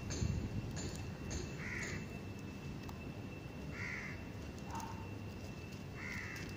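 A bird calling: three short calls about two seconds apart, with a fainter, lower call between the second and third.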